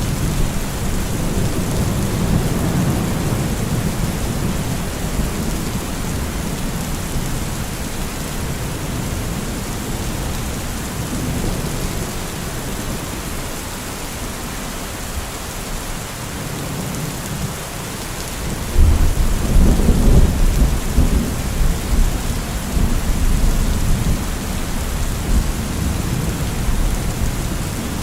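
Steady rain falling during a thunderstorm, with rolling thunder. A low rumble dies away over the first few seconds, and a louder roll of thunder breaks about two-thirds of the way through and rumbles on for several seconds.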